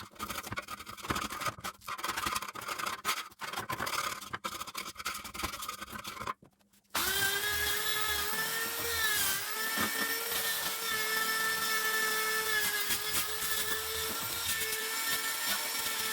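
Electric power tool at work, stopping and starting in short stretches for the first several seconds. After a brief break it runs steadily with an even motor whine.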